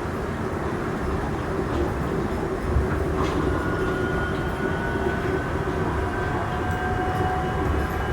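Kalayang SkyTrain people-mover car running along its guideway, heard from inside the car: a steady rumble and rushing noise, a single knock a little under three seconds in, then a faint whine that slowly rises in pitch.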